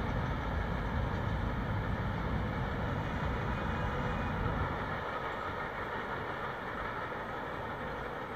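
Steady rumble of a long freight train's rear cars rolling away along the track, fading gradually from about five seconds in.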